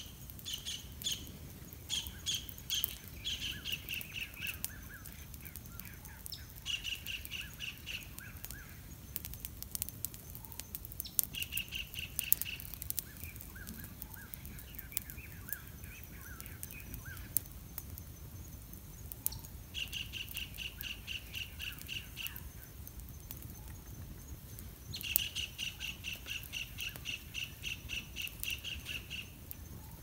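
A bird calling in repeated bouts of evenly spaced chirping notes, about four a second, each bout lasting a few seconds, with the longest bout near the end. Scattered sharp crackles sound throughout.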